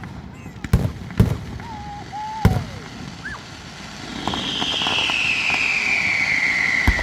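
Fireworks display: three sharp bangs in the first few seconds, then a loud whistle that slides slowly downward in pitch for the last three seconds, with fine crackling under it.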